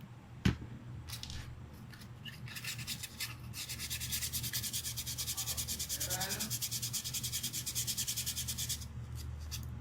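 A sharp knock about half a second in. Then, from about three and a half seconds in, fine sandpaper is rubbed quickly back and forth by hand over a gyro compass pump rotor in a fast, even rhythm, to clean off discolouration.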